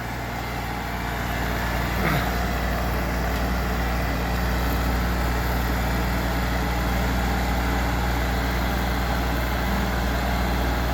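New Holland TC33D's three-cylinder diesel engine running steadily at a low speed, getting a little louder over the first couple of seconds.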